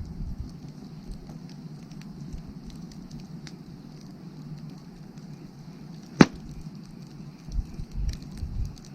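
Wood fire burning with a steady low hiss and scattered small crackles, and one sharp, loud pop about six seconds in. A few low rumbles come near the end.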